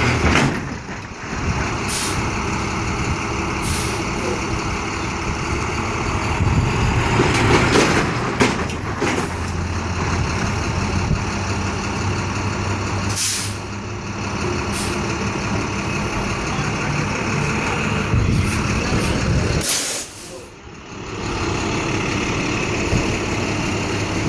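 Large truck engine running steadily, with several short, sharp hisses of air, like air-brake releases, spaced a few seconds apart.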